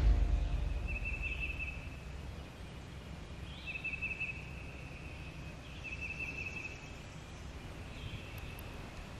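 A songbird singing a short trilled phrase, a brief higher note followed by a buzzy trill under a second long, repeated four times about two seconds apart, the last one fainter. A low steady rumble runs underneath.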